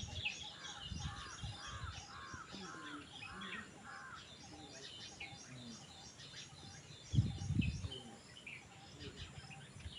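Birds calling in the morning: a run of about six harsh calls, roughly two a second, over steady high chirping. About seven seconds in comes a brief low rumble, the loudest sound.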